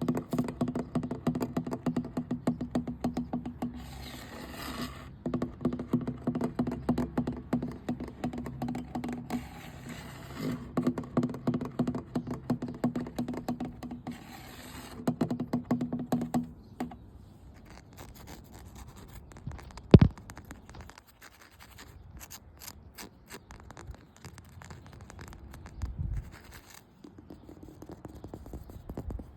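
Rapid, continuous scratching on a hard object that rings with a steady low tone, in runs of several seconds with short breaks. About two-thirds of the way in it gives way to scattered, quieter taps and light scratches, with one sharp click about twenty seconds in.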